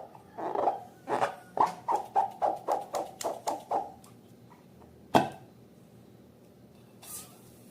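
Slime being squeezed and worked by hand, a quick run of wet squelches, about four a second. Then a single sharp pop about five seconds in.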